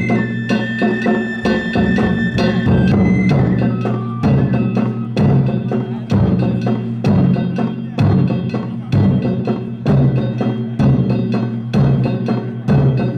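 Danjiri narimono: festival taiko drums beating heavily about once a second under quick, bright strikes of hand gongs and drumsticks. A high flute line steps downward and fades out in the first few seconds.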